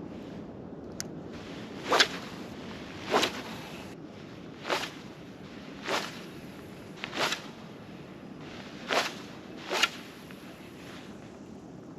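Fishing rod whipped sharply through the air, about seven short swishes spaced a second or so apart, typical of casting and hopping a vibe lure, with a single sharp click about a second in.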